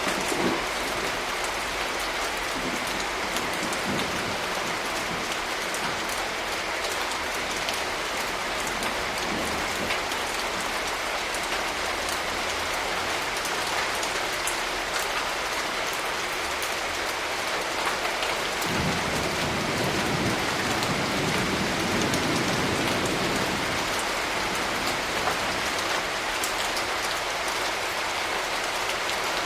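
Steady rain falling and pattering on surfaces, with a low rumble of thunder swelling up about two-thirds of the way through and fading over several seconds.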